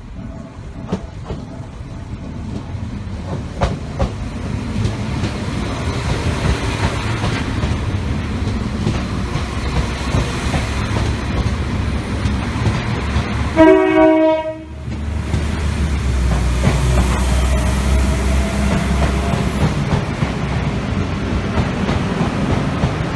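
Diesel train passing on the rails with a steady, building rumble and wheel noise. About halfway through it sounds its horn in one short blast, followed by a deeper engine rumble.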